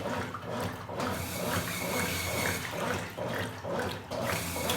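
Top-loading agitator washing machine agitating a load while water runs in to raise the level: water pouring and sloshing in rhythmic swishes about twice a second over the machine's low motor hum.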